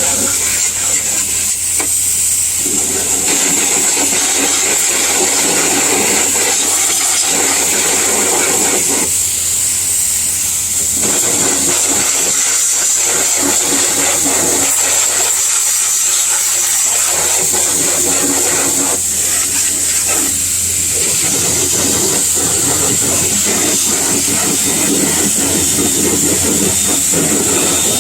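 Car-wash water spray hissing steadily, over a constant low hum, with a fuller rushing layer that comes and goes every few seconds.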